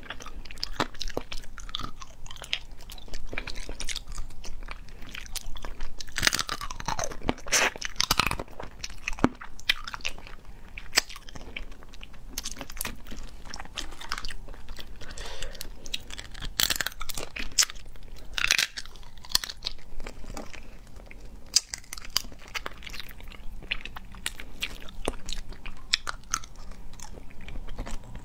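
Close-miked chewing of spicy crab claws and legs, with many sharp cracks and crunches of shell. The loudest stretch is about six to eight seconds in.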